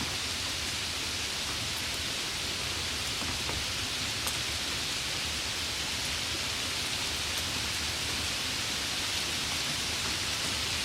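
Steady, even rain with a few faint individual drop ticks.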